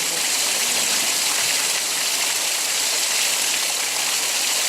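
Heavy rain falling steadily with a constant, even rush, along with water pouring over an overflowing roof gutter.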